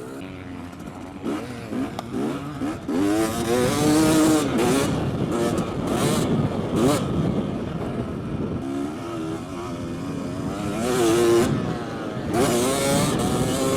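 KTM motocross bike's engine revving up and dropping off again and again as it is ridden hard around the track, with a few short bursts of rushing noise.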